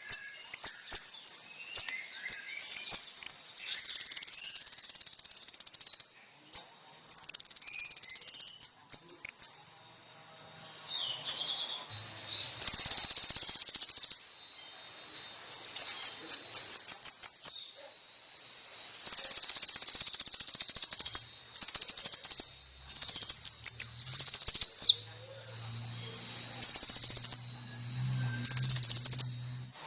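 A small songbird singing high, rapid trills in bursts of one to two seconds, with quick chirps and chip notes between the bursts.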